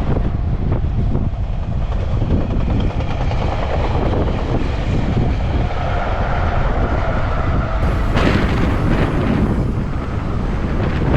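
Strong wind buffeting the microphone over the sound of surf, with a louder hissing surge about eight seconds in.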